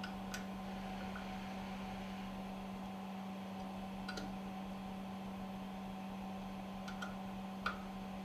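Steady electrical hum with a few light, sharp clicks scattered through it, the loudest near the end.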